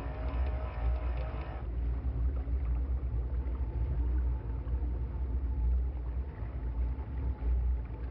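Cannon Mag 20 electric downrigger motor whining as it winds in its cable, stopping about one and a half seconds in. Under it and after it, the low steady rumble of the boat under way.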